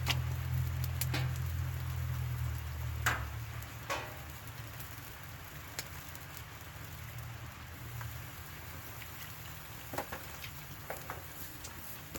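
Steady rain with a campfire burning, with scattered sharp taps and pops, the loudest about three and four seconds in. A low rumble fades out over the first few seconds.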